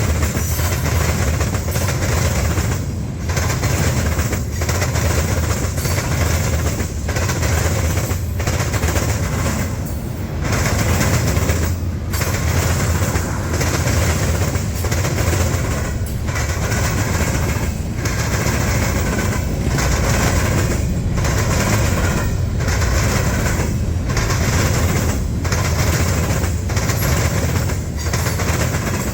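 Freight train cars rolling past close by: a steady, loud rumble and clatter of wheels on rail, with brief dips every second or two.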